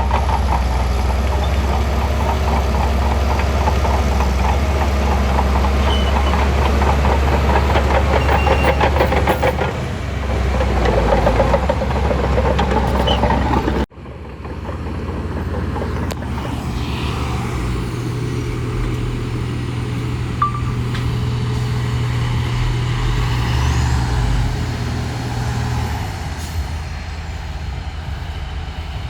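Heavy diesel engine of a Shantui crawler bulldozer running under work, with a fast rhythmic clatter over the engine drone. About halfway it cuts off abruptly and resumes as a steadier engine drone.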